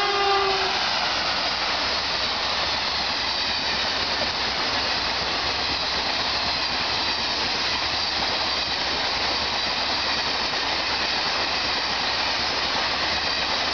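An electric locomotive's horn tails off in the first second. Then the coaches of a passenger express pass at high speed, a steady rushing noise of wheels on rail and displaced air.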